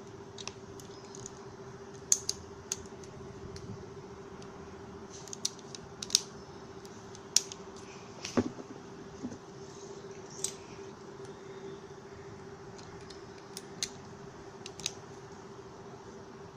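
Irregular sharp clicks and taps, about a dozen scattered through, over a steady low hum.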